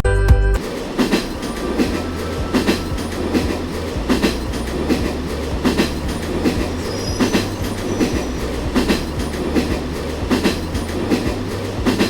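Train running on track: its wheels clack over the rail joints in a steady rhythm above a continuous low rumble.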